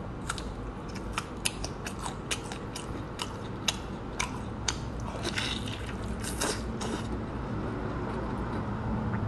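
Close-up mouth sounds of eating pork knuckle: wet, sticky clicks and smacks of biting and chewing the skin, coming irregularly, with a busier spell of chewing a little past the middle.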